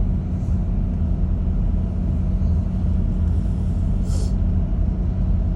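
Cruise boat's engine droning steadily, a low rumble with a constant hum, with a short hiss about four seconds in.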